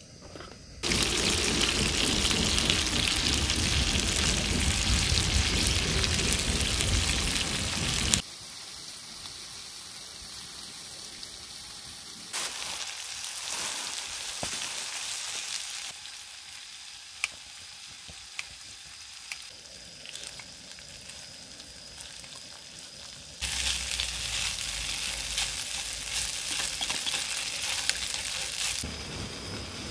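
Pork belly and kimchi sizzling loudly in a frying pan, cutting off suddenly about eight seconds in. A quieter stretch follows with a few light clicks. Near the end the loud sizzling returns as cold rice is stir-fried into the kimchi and pork.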